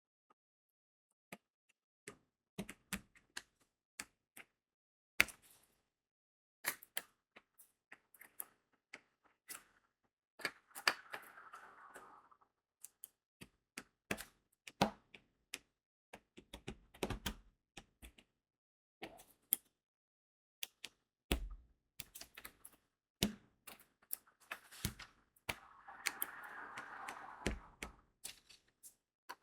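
Crystal diamond-painting beads being pressed onto the sticky canvas with a drill pen: small irregular clicks and taps. Twice, about a third of the way in and again near the end, a longer rattle of beads being stirred or poured in the tray.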